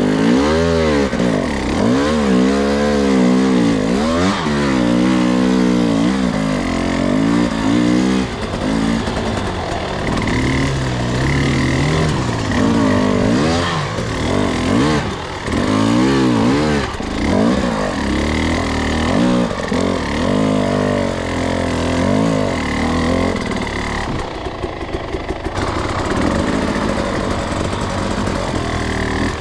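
Two-stroke dirt bike engine under way on a trail, its revs rising and falling over and over with the throttle. Near the end it briefly drops back before pulling again.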